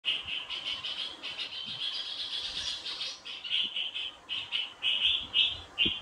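A bird calling in a fast run of repeated chirps, which then break into separate chirps about three a second.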